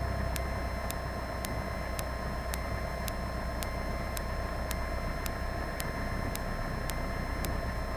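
Cessna 172 cabin noise through the intercom audio feed: a steady low hum with faint steady whine tones and a regular light tick about twice a second.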